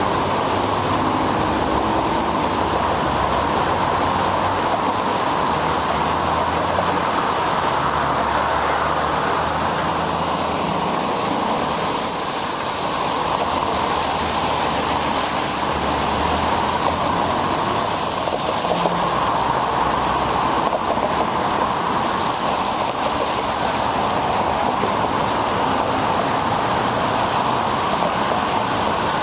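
A steady, loud rushing noise from a moving bicycle in the rain: wind over the microphone mixed with tyres hissing on wet pavement. It rises abruptly at the start and then holds even.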